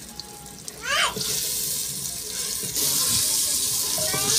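Onions, tomatoes and green chillies sizzling in hot oil in a clay pot while the masala is fried and stirred with a wooden spoon. The sizzle sets in about a second in and grows louder a little before halfway.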